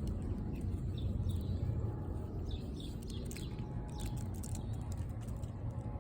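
Small birds chirping faintly in short calls over a steady low rumble, with a few light clicks.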